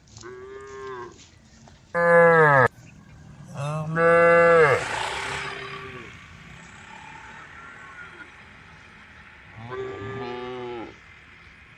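Cows mooing, calling to the herd: a shorter call at the start, two loud moos about two and four seconds in, and another near the end.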